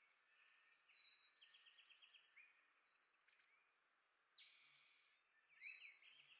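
Small songbirds chirping faintly: short gliding chirps and a quick trill of repeated notes, with a brief buzzier call a little past the middle.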